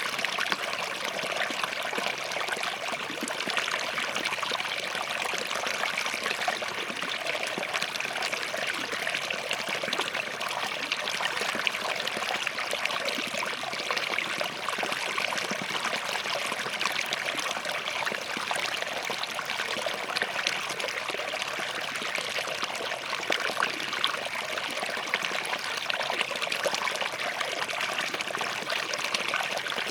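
Small forest stream flowing and trickling steadily over rocks.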